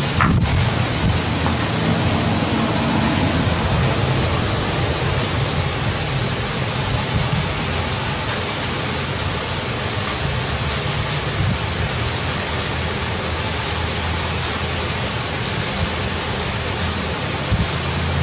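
Heavy rain falling, a steady even hiss throughout, with a single sharp knock right at the start.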